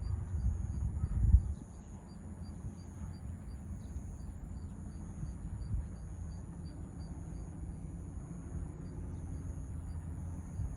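Crop-spraying helicopter running, heard as a steady low rumble with a louder thump about a second in.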